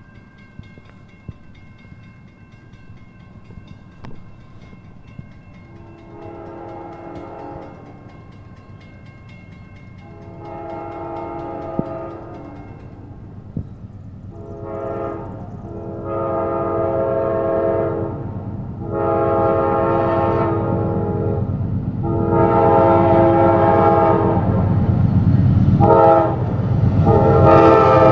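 Amtrak Auto Train's locomotive horn sounding the long-long-short-long grade-crossing signal, then further long blasts, growing louder as the train approaches. The rumble of the train builds underneath.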